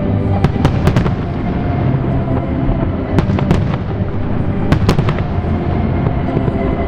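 Fireworks going off in quick clusters of sharp bangs, about half a second in, around three seconds in and near five seconds, over steady music played for the show.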